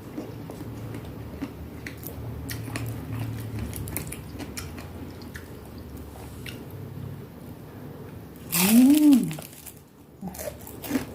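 A person chewing and crunching food, with many small wet mouth clicks. About eight and a half seconds in comes a short, loud hummed 'mmm' that rises and falls in pitch.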